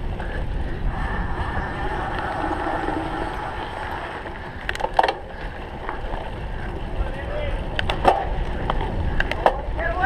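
Wind rumbling on the microphone while a cyclocross bike is ridden over rough ground, with several sharp clicks and knocks from the bike and faint distant voices.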